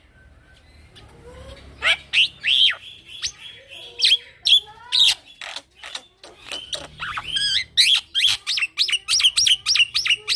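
Young male black-winged starling (jalak putih) singing: sharp whistled notes that sweep up and down start about two seconds in, then quicken into a rapid run of about three notes a second near the end.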